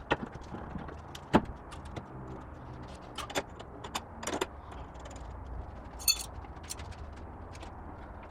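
Scattered metallic clinks and knocks of tools and car parts being handled during reassembly of the differential, with a short rattling clatter about six seconds in, over a steady low hum.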